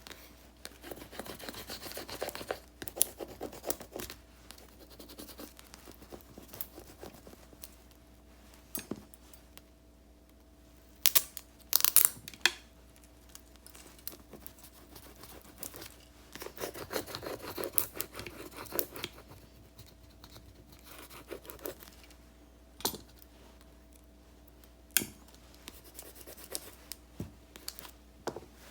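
Paper and stickers being handled for journal decorating: soft rustling and scratching stretches, with scattered sharp clicks and snips, loudest in a cluster about eleven seconds in.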